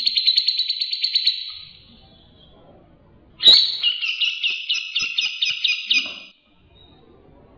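Songbird song of the kind used as a tutor (masteran) recording for training captive songbirds: a fast, high trill of about ten notes a second that fades out about a second and a half in. After a pause, a sharp note opens a second trill of about three repeated notes a second, which stops about six seconds in.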